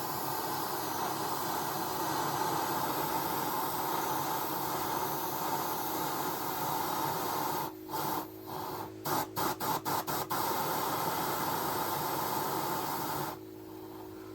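Waste-oil burner stove running with a steady hiss of burning oil and air. The sound cuts in and out several times in quick succession from about eight to ten seconds in, and near the end it drops to a quieter steady hum.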